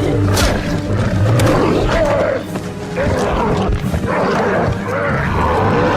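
Animals snarling and growling, with short cries that bend up and down in pitch, over background music.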